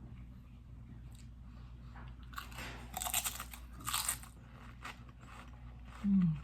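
A plain Lay's potato chip being bitten and chewed, with crisp crunches in two bursts about two and a half and four seconds in. Near the end, a short hummed "mm" that falls in pitch.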